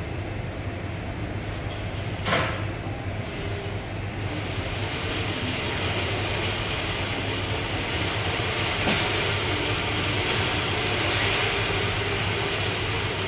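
A steady low machine hum runs under a hiss that grows louder a few seconds in. Two short, sharp rasping sounds and a small click stand out above it.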